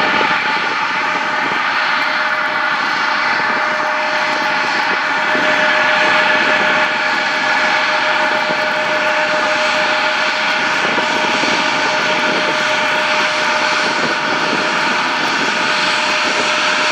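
Embraer 175 regional jet's GE CF34 turbofan engines running steadily: an even whine over a broad rushing noise.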